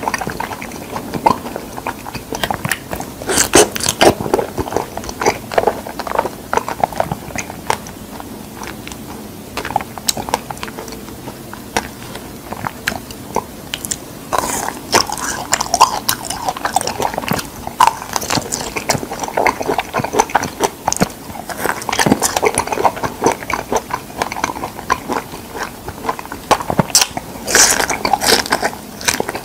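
Close-miked eating of fresh figs: biting and chewing with many short sharp mouth clicks and smacks, easing off for a few seconds partway through.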